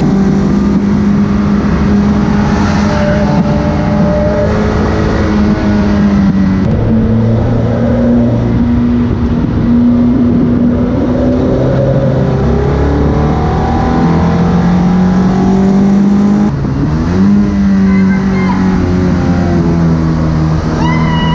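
Ariel Nomad's four-cylinder engine, mounted behind the seats, running hard at track speed, its pitch rising and falling with the revs. About three-quarters of the way through the revs drop briefly and climb again.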